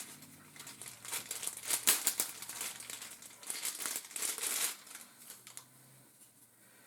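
Packaging being handled and crinkled as accessories are taken out of the box, in irregular crackly bursts that die away about five seconds in.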